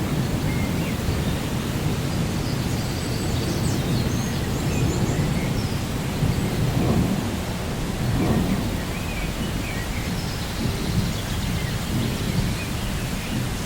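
Rainforest ambience: a low, continuous thunder rumble under a steady rain hiss, with faint bird chirps scattered through.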